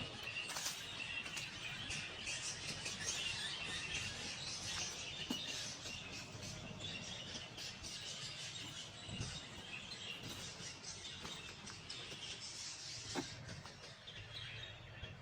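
Many small birds chirping and singing at once in a dense chorus that thins out near the end, over a low rumble.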